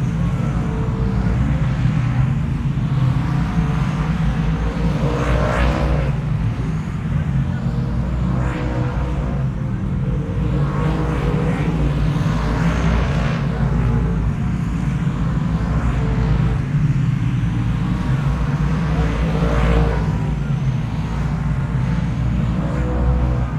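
Motor vehicle engine running steadily with a low rumble, with a brief rushing swell of noise every few seconds.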